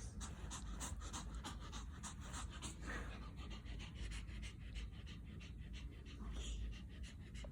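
A dog panting quickly and evenly, about four to five breaths a second.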